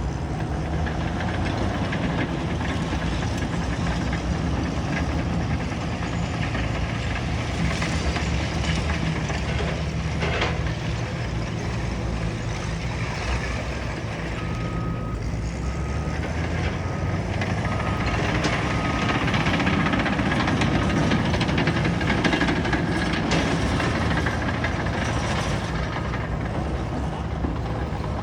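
Caterpillar bulldozer working, its diesel engine running steadily under a haze of noise from pushed rubble. A short, broken beep sounds about halfway through.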